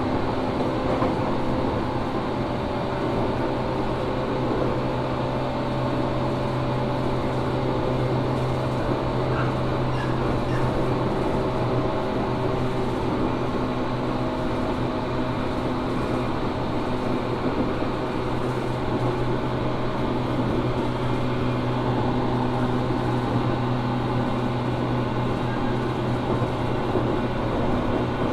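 Onboard running sound of a JR Kyushu 415 series 1500 subseries electric multiple unit, heard inside motor car MoHa 414-1513 at a steady speed: a constant hum from the motors and wheels over rail noise. This car is labelled as one with an unusual noise.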